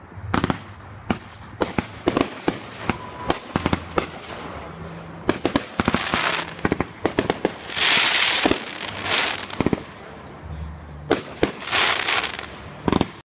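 Fireworks going off: a fast, irregular string of sharp bangs and cracks, with several longer hissing, crackling bursts among them, cutting off suddenly near the end.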